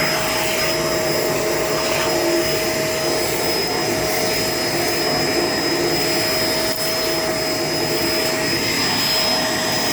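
Shark LA702 Lift-Away upright vacuum running steadily with suction through its hose: an even rush of air with a constant high motor whine.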